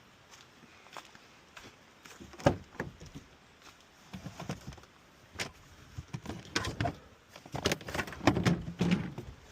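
Scattered knocks, clicks and rustles of objects being handled, with one sharp knock about two and a half seconds in and a busier stretch of clatter near the end.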